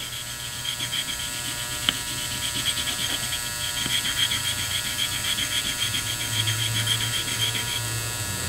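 Electric vibrator buzzing in a pail of water to clean Corvair rocker arms, the metal arms rattling against each other in a fast, even ticking over a steady hum. There is one sharper click about two seconds in.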